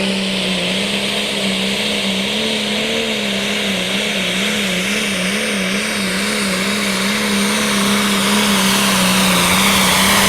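Super stock pulling tractor's diesel engine at full throttle pulling the sled, with a steady engine note over a loud turbo hiss. The pitch wavers up and down in the middle, and the sound grows a little louder near the end.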